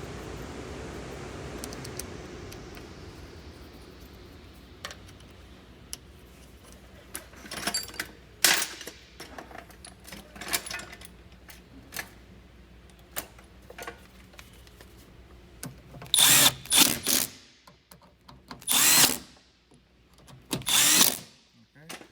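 Cordless drill-driver run in short bursts, driving in the door lock actuator's mounting screws after they were started by hand; the longest and loudest bursts come in the last several seconds. A steady hiss fades out over the first few seconds.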